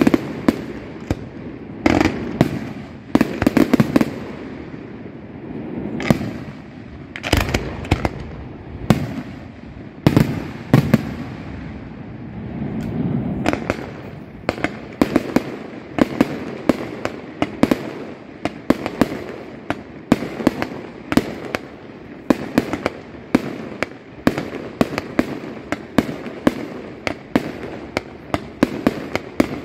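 Fireworks display: a rapid, irregular string of loud aerial shell bursts, each a sharp bang followed by a rumbling echo and crackle, coming thicker and faster in the second half.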